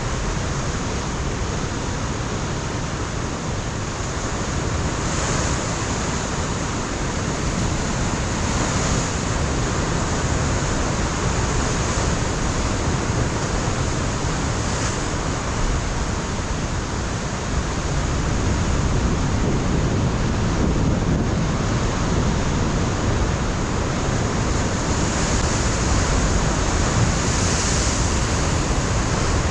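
Ocean surf breaking on a rocky shore, a continuous wash of water with slow swells, growing a little louder in the second half, with wind buffeting the microphone.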